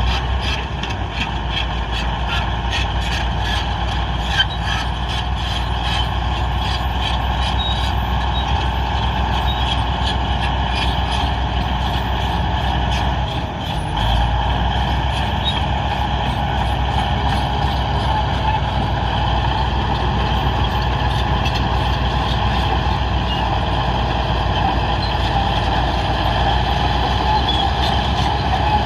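Heavy diesel earthmoving machinery, a bulldozer or wheel loader, running steadily under load. A regular clicking runs through the first dozen seconds, and the engine briefly eases off about halfway through.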